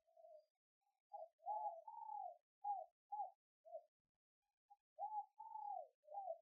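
Spotted dove cooing faintly: two phrases of short, low, rounded coo notes, the first starting about a second in and the second a little after the middle.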